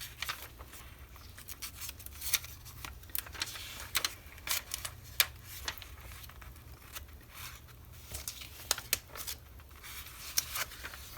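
Magazine paper cutouts being handled and shifted: irregular rustling and crinkling with short, sharp clicks and snips of paper.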